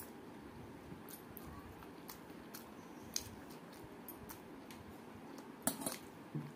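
Close-up eating sounds from a person chewing a mouthful of rice eaten by hand: wet mouth clicks and smacks repeating every fraction of a second. A short cluster of sharper, louder clicks comes near the end.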